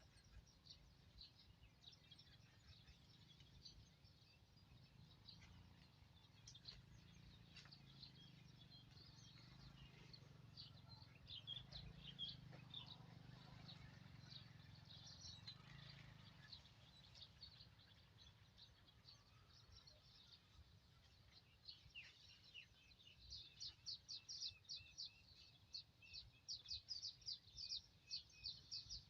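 Birds chirping faintly, short high notes throughout that turn into a quick busy run of chirps over the last few seconds.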